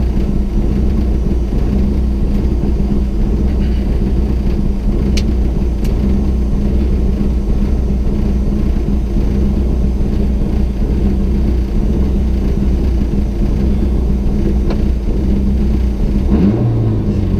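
Rally car engine idling steadily, heard from inside the stripped cabin. Near the end the revs rise as the driver blips the throttle and selects a gear.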